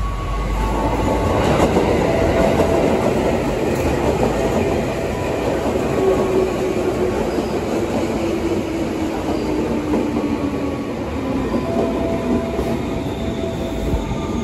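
A JR 205 series electric commuter train running past close by, its wheels rumbling and clacking over the rail joints. The noise swells about a second in as the cars reach the platform, then holds steady, with a few faint whining tones over it.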